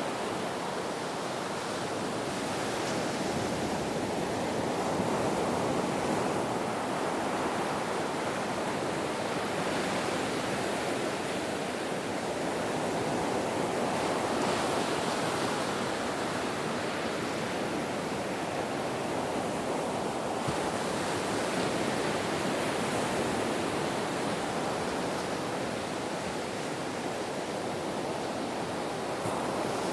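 Ocean surf in a continuous rush of noise that swells gently and eases every several seconds.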